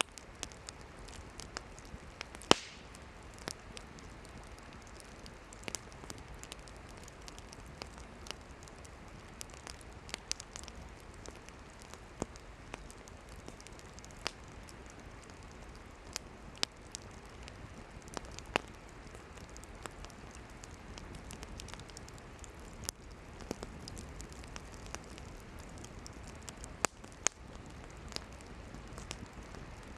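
Campfire of burning firewood crackling: a soft steady hiss of flames with irregular sharp pops and snaps, the loudest pop about two and a half seconds in.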